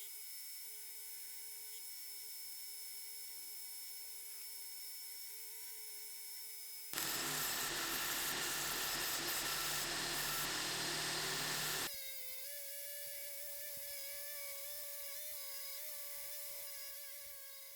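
Small electric power tool running with a steady whine. For about five seconds in the middle it turns into a much louder, gritty noise as the tool bites into the work, then drops back to the whine, which fades out at the end.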